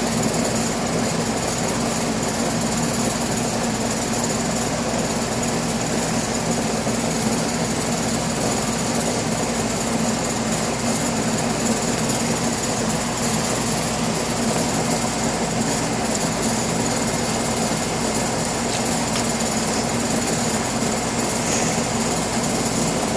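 Air conditioner running steadily: an even hum from the compressor and fan, with a faint high whine over it.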